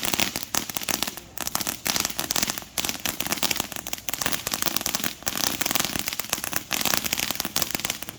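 Consumer fireworks crackling: a fast, dense run of small sharp pops, with a few brief lulls.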